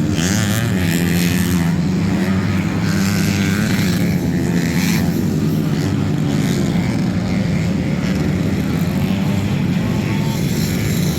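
Motocross bike engines revving, their pitch rising and falling.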